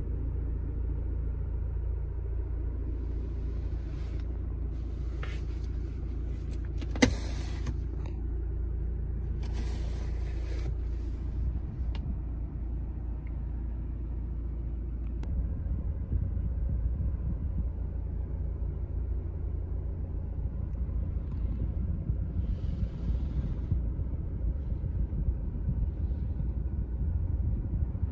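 A 1.6-litre D2 diesel engine idling, heard as a steady low rumble from inside the cabin. A single sharp click comes about seven seconds in.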